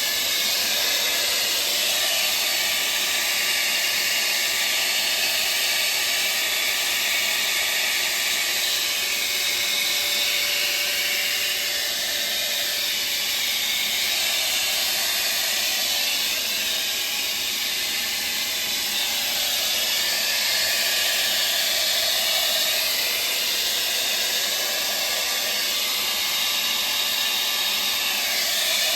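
Handheld hair dryer running steadily, blowing air onto iced-up refrigerator evaporator coils to melt the ice off.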